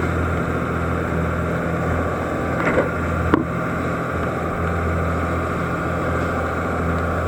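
Steady low engine drone with an even hum, unchanging throughout, and a faint click about three and a half seconds in.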